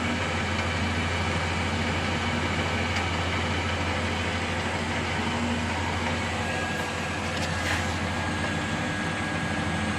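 Restored Colchester Student lathe running at low speed with the carriage feeding on the lead screw: a steady motor hum under an even whir of gears and drive.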